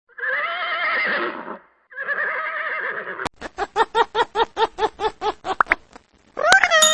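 A horse whinnying: two quavering, wavering-pitched calls, followed by a fast run of short repeated calls at about five a second.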